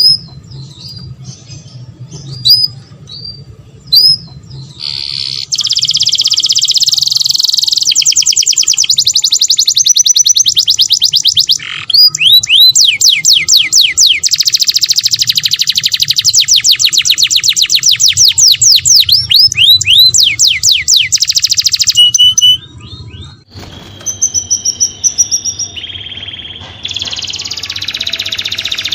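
Domestic canary singing: a few short chirps, then a long, loud song of rapid trills and sweeping whistled notes, breaking off briefly near the end before going on.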